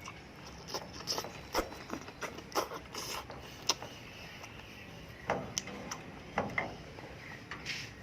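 Close-up eating sounds of aloe vera gel with sugar: irregular wet chewing, lip smacks and sharp mouth clicks, coming in two bursts with a short lull between them.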